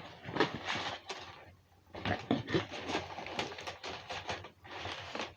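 Plastic snack packets being handled and shuffled about, a run of irregular rustles, crinkles and light knocks.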